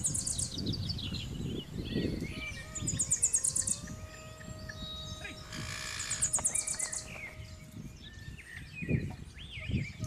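Birds chirping and whistling, with two high, rapid trills in the first half. Under them runs an uneven low rumble, with a stronger low burst about nine seconds in.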